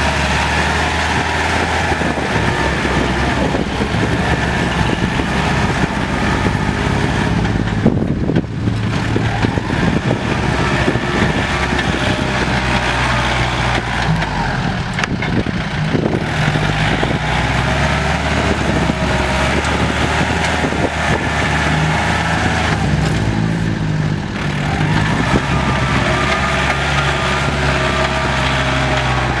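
Diesel farm tractor engines running while pushing soil, the engine note rising and falling several times as they work.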